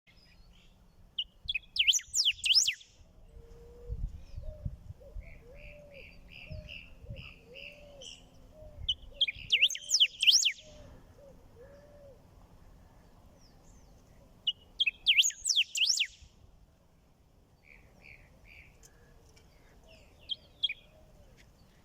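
Rey del bosque (black-backed grosbeak) singing: three loud bursts of fast, sweeping warbled phrases, about two seconds in, ten seconds in and fifteen seconds in. Softer runs of short chirps come between them.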